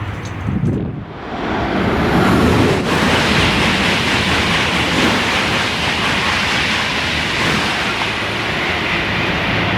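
High-speed TGV train running through the station at speed: a loud, steady rushing of air and wheels that swells about a second in and holds.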